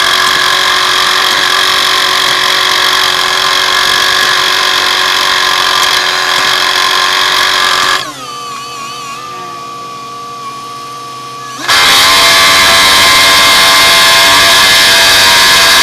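Heavy road-paving machinery running loudly and steadily. About halfway through the sound drops sharply to a quieter wavering hum for a few seconds, then cuts back in at full level.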